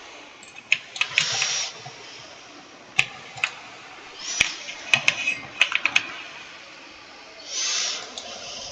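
Computer keyboard being typed on: irregular clicking keystrokes in loose clusters with short pauses. Two brief noisy swishes come in, one about a second in and one near the end.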